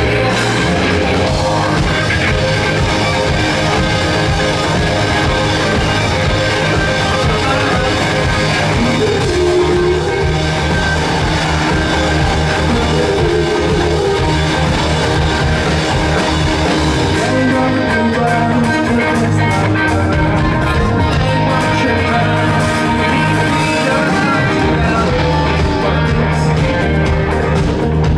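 Rock band playing live, with electric guitars over bass and a drum kit in a steady, dense full-band sound.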